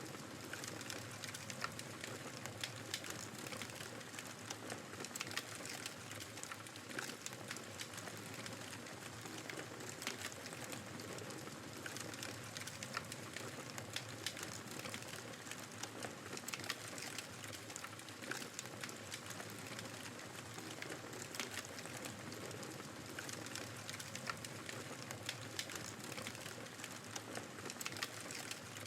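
Wood fire crackling with many small, irregular pops over a steady rush of blizzard wind.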